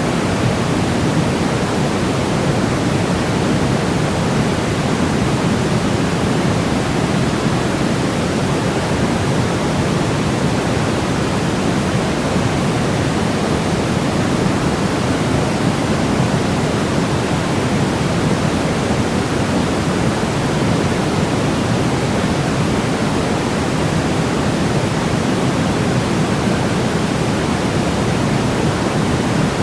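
Continuous synthetic white noise for baby sleep: a steady, unbroken hiss that never changes and is fuller in the low end than the high, close to pink noise.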